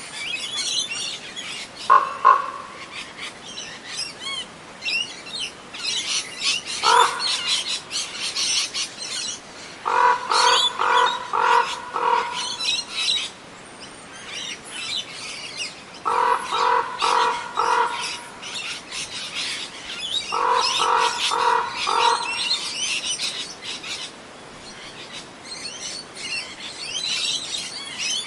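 Many small birds chirping and twittering without pause, overlapped by a lower, harsher bird call that comes singly twice and then in quick runs of four or five notes three times.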